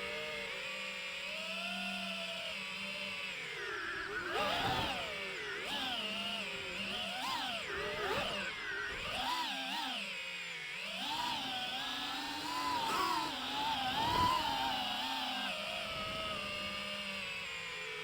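DJI FPV drone's motors and propellers whining, the pitch rising and falling again and again as the throttle is worked.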